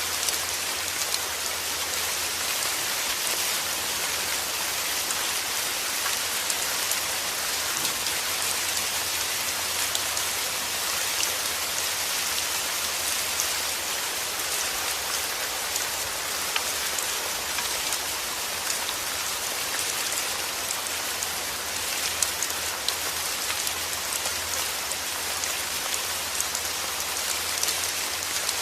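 Steady rain falling on a surface, a dense even hiss speckled with the ticks of individual drops.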